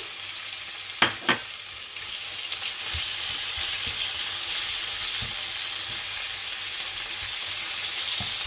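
Chicken pieces and onions sizzling in olive oil in a cast-iron skillet as they are stirred with a wooden spatula. Two sharp knocks come about a second in, then the sizzle grows louder and holds steady.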